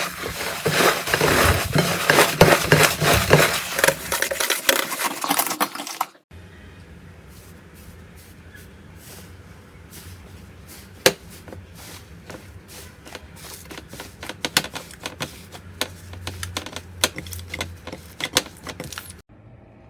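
Slime being squeezed and worked by hand, with dense crackling clicks and pops. About six seconds in it cuts to a quieter clip of sparser pops over a low steady hum.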